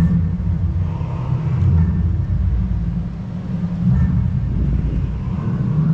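Steady low rumble of a scooter rolling along.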